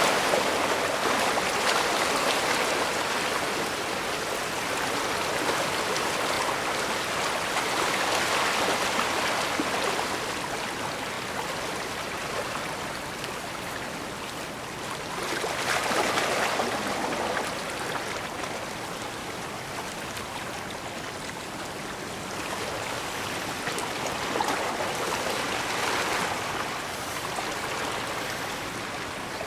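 Water washing at the shore of a bay, a continuous rush that swells and eases again about every eight to ten seconds as small waves come in.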